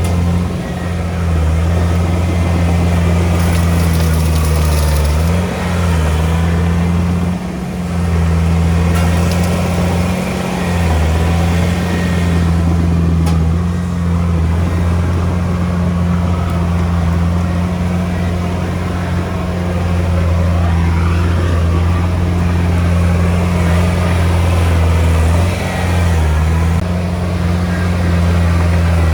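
Diesel engine of a Komatsu D31P bulldozer running loud and steady under load, its pitch sagging briefly a few times as the load changes.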